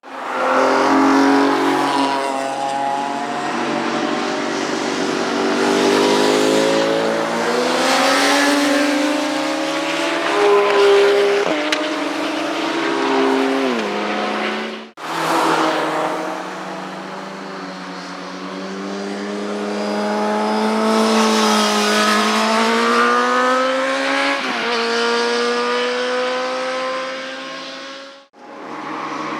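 Motorcycle engines accelerating hard past, their pitch climbing through the gears and dropping at each upshift. The sound cuts out briefly about halfway through and again near the end, where one clip gives way to the next.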